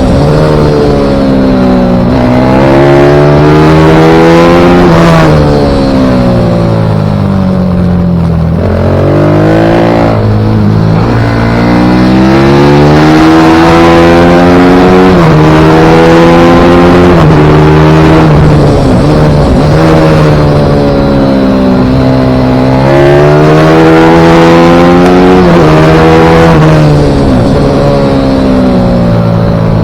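Single-cylinder pit bike engine under hard acceleration at racing speed. Its pitch climbs as it revs out, then drops sharply when the rider shifts or brakes for a corner, over and over.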